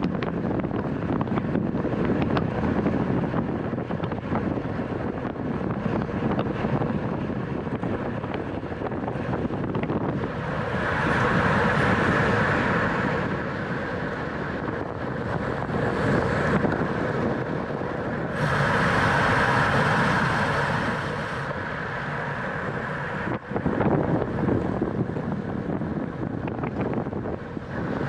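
Wind rushing over the microphone of a camera riding in a bicycle race, with steady rolling noise. Twice, a brighter, higher whirr comes in for a few seconds.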